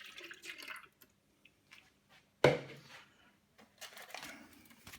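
Water poured briefly into a small bowl, then a single sharp knock of a container set down on the worktop about two and a half seconds in, followed by quiet handling noises.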